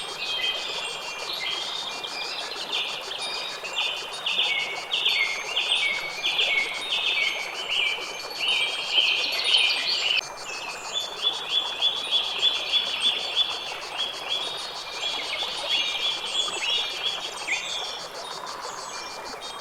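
Birds singing and chirping in fast runs of short repeated notes over a steady background hiss; the song thins out near the end.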